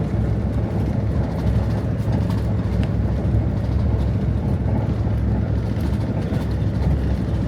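Amtrak passenger train running, a steady low rumble with no change in pitch or pace.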